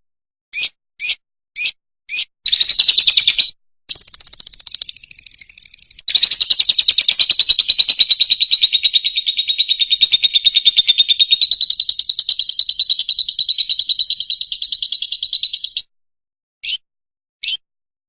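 Fischer's lovebird singing. It starts with a few short, separate chirps, moves into a buzzy trill and warble, then holds a long, high, rapid trill for about ten seconds, and ends with two more short chirps.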